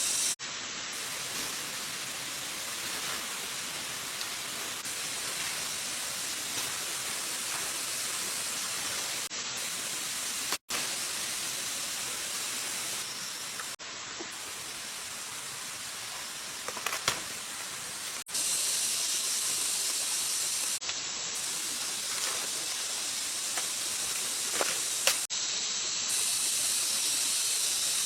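Steady hiss of rushing water from a jungle stream, with its level jumping abruptly a few times.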